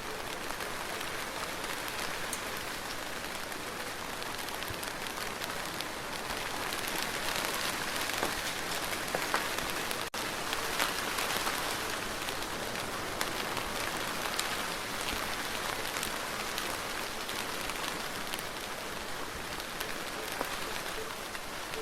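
Steady rain falling on a surface, an even patter with scattered individual drops ticking out. There is a brief dropout in the sound about halfway through.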